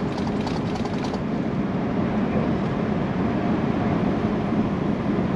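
Steady engine and road noise inside a semi truck's cab while cruising on the highway, a low, even rumble with a faint steady hum.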